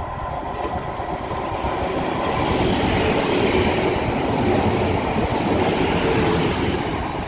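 South Western Railway passenger train running into the station along the platform. Its noise grows louder as it draws level about two to three seconds in, and eases slightly near the end.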